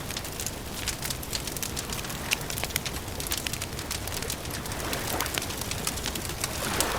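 Wood fire crackling, with many sharp pops and snaps at irregular intervals over a steady low rumble.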